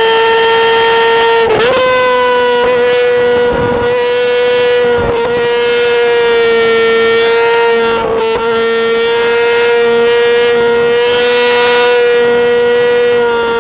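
Motorcycle engine held at high revs, a loud steady high-pitched note with brief wobbles in pitch about a second and a half in, around five seconds, and around eight seconds.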